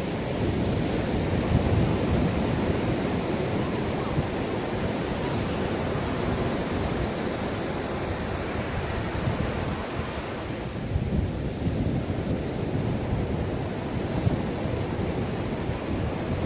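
Sea waves washing onto the shore in a steady surf, with wind rumbling on the microphone.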